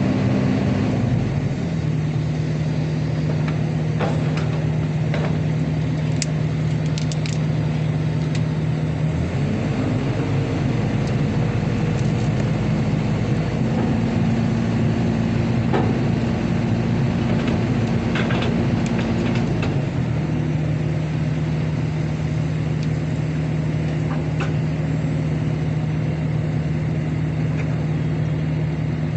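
Excavator's diesel engine running steadily, its pitch stepping up about nine seconds in and dropping back about twenty seconds in, with occasional light clicks and knocks.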